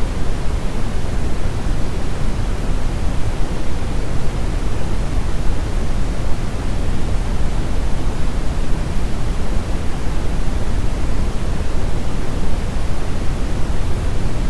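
Steady brown noise: a deep, even rushing hiss, heaviest in the low end and fading toward the treble, unchanging throughout.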